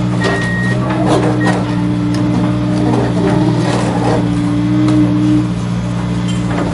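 Heavy-truck engine sound running steadily, with a reversing beeper sounding in the first second. Scattered clicks run over it, and one tone of the engine note drops out about five seconds in.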